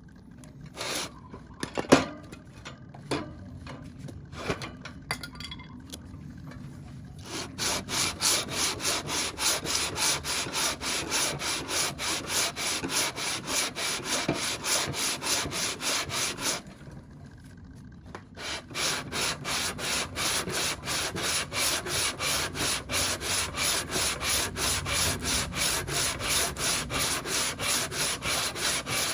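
Subaru aluminium cylinder head rubbed back and forth by hand on 120-grit sandpaper over a flat tile, resurfacing the head's gasket face: a rhythmic scraping at about three strokes a second. A few scattered knocks and a sharp clack about two seconds in come first; the strokes then start, stop for about two seconds midway, and resume.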